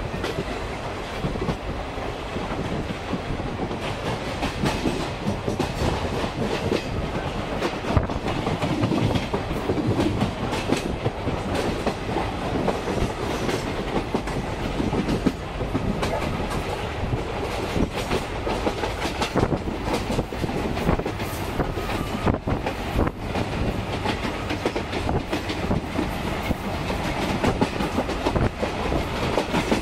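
Passenger coach of a locomotive-hauled train running along the track, heard from inside the coach: a steady rumble of wheels on rail with frequent sharp clicks and knocks as the wheels pass over rail joints.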